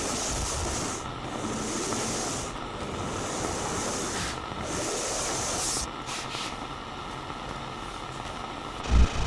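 Walkie-talkie radio static hissing in surges of about a second each, dying down after about six seconds; a loud low thump near the end.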